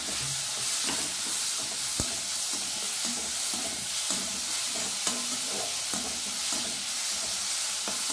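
Crushed shallots sizzling in hot coconut oil in a metal kadai, sautéed until they wilt, with a slotted metal spatula stirring and scraping them; a sharp click about two seconds in.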